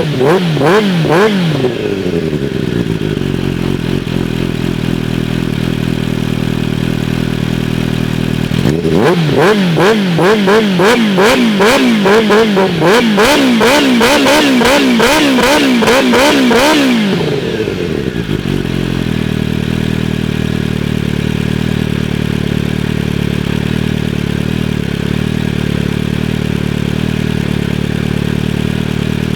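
Kawasaki Ninja H2's supercharged inline-four, cold-started, running through an Akrapovic canister and titanium mid-pipe with the catalytic converter removed. It idles steadily, with quick throttle blips near the start and a longer run of repeated revs from about a third of the way in until just past the middle, then settles back to idle.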